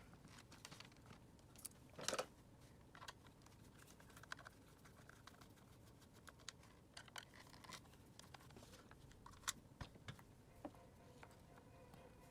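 Faint clicks and short scrapes of plastic Dyson vacuum cleaner parts and tools being handled during disassembly, with one louder scrape about two seconds in.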